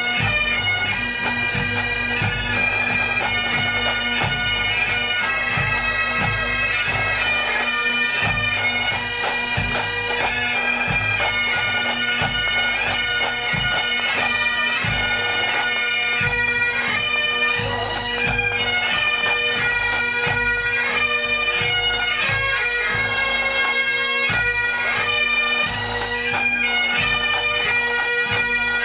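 A massed pipe band playing a march: Highland bagpipes with steady drones under the chanter melody, and drums beating a regular low pulse.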